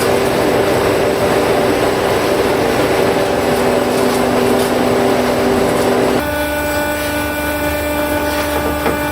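Heavy wood-processing machinery running: a loud, steady mechanical whine over a noisy grinding sound. About six seconds in, it changes abruptly to a different, lower machine drone.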